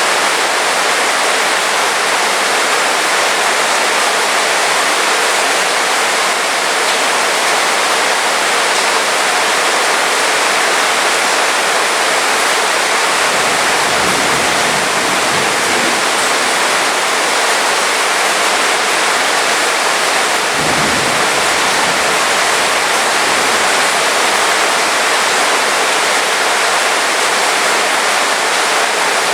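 Heavy rain falling steadily, a dense even hiss. There is a low rumble about halfway through and another a few seconds later.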